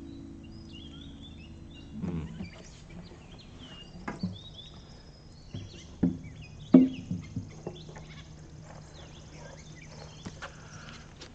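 Small birds chirping, with several sharp pops and knocks, the loudest about seven seconds in.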